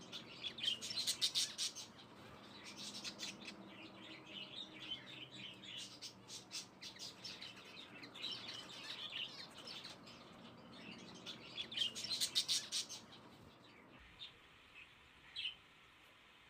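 Small birds chirping in several bursts of rapid high chirps; the chirping stops about fourteen seconds in, leaving only a couple of faint clicks.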